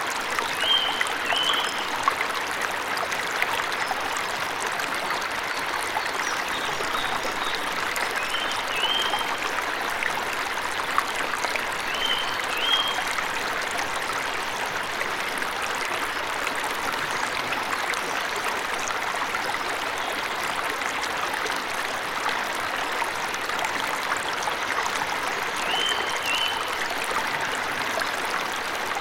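Waterfall rushing steadily, with small birds giving short paired chirps now and then: around the start, twice in the middle, and again near the end.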